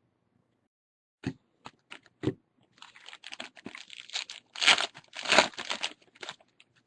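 A trading-card pack's foil wrapper being torn open and crinkled: two sharp clicks, then a few seconds of crackling wrapper that is loudest about two thirds of the way through.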